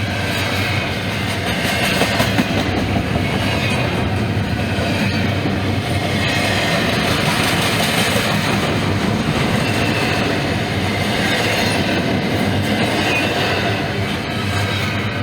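A Norfolk Southern freight train rolling past, with a steady rumble of wheels on the rails and a faint high wheel squeal now and then.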